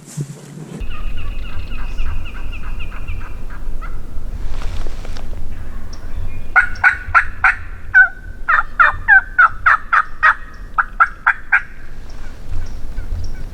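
Turkey yelping: a long run of loud, evenly paced yelps, about three a second, lasting some five seconds, after a fainter, higher calling sequence earlier on. A low wind rumble runs underneath.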